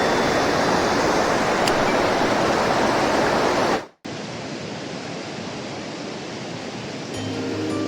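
A mountain stream rushing steadily, loud and even. It fades out suddenly about four seconds in, and after a cut a quieter stretch of running water follows. Background music comes in near the end.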